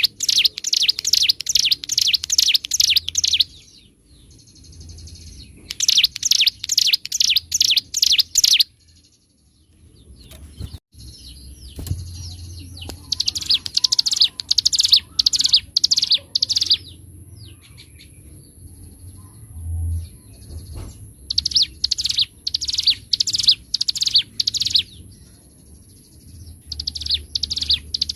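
Hill prinia (ciblek gunung) singing loud phrases of rapid, repeated high chirping notes, each phrase lasting a few seconds with short pauses between. A faint steady high whine runs underneath.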